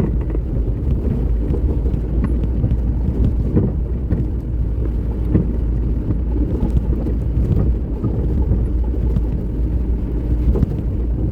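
A vehicle driving over a rough, rain-damaged road: a steady low rumble with scattered knocks and rattles as it goes over bumps.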